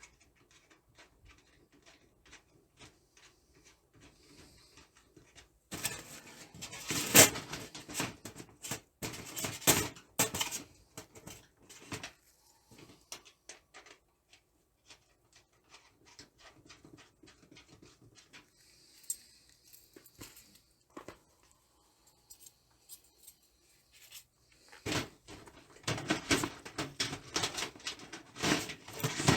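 Hands unpacking and handling a titanium camp stove and its packaging: rustling, light taps and clicks. There are louder spells of rustling and clattering about six to eleven seconds in and again near the end.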